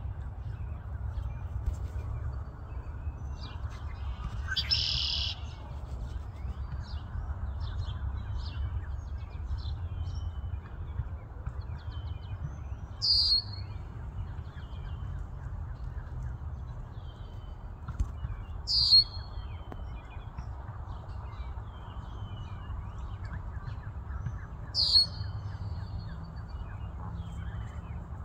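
Birds chirping over a steady low background rumble: a short, sharp, falling chirp repeats about every six seconds, with fainter twittering between and a longer call about five seconds in.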